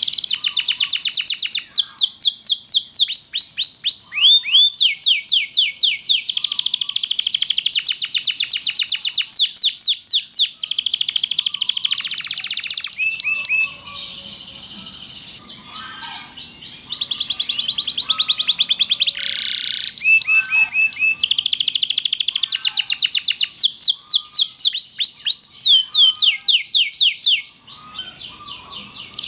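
Domestic canary singing long, fast trills: rapid strings of repeated high notes, each run lasting a few seconds. The song drops away briefly about halfway through and again near the end.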